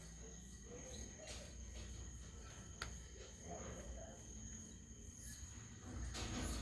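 Insects trilling steadily at one high pitch, with a single sharp click about three seconds in and a short rustling noise near the end.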